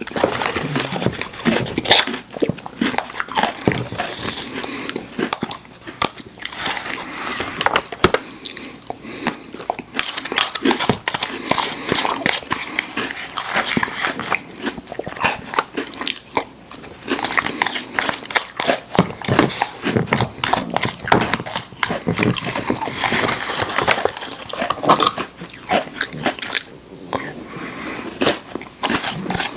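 Crunchy packaged cookies being bitten and chewed close to the microphone: dense, irregular crunching and crackling that goes on throughout.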